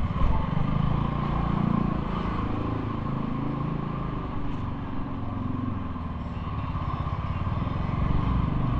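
Motorcycle engine running, its pitch drifting up and down as the revs change, with a low rumble of wind on the microphone.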